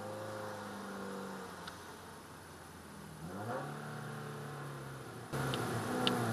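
Car engine heard from inside the cabin, its pitch rising twice as the car pulls away from a stop and then holding steady.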